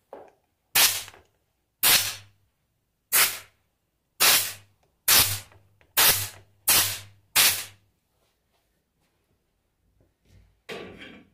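A series of eight sharp blows, roughly a second apart, each ringing off briefly, then a softer one near the end. They are typical of hammer strikes on the alternator while its seized cover screws are being worked loose.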